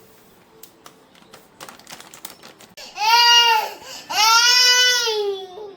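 Toddler crying: two loud wails, a short one about three seconds in and a longer one that trails off lower, after a few faint taps.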